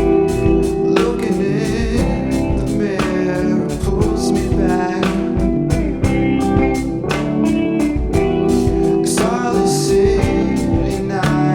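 Live band playing a song: drum kit keeping a steady beat under electric guitar, bass and keys.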